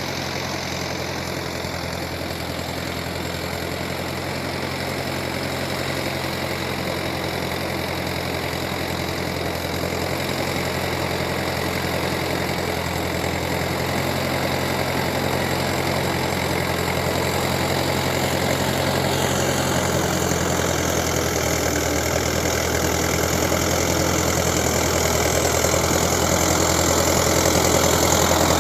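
Tractor engine running steadily, growing gradually louder, with a rising hiss in the last third.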